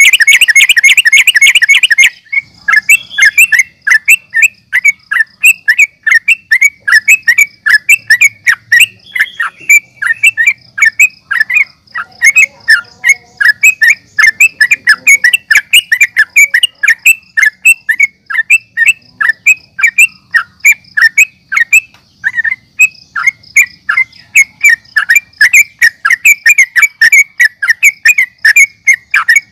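Yellow-vented bulbul (trucukan) calling excitedly, in a rapid unbroken chatter for the first two seconds and then short falling chirps repeated about three times a second. This is an agitated, fighting-style call recording used to provoke other bulbuls into answering.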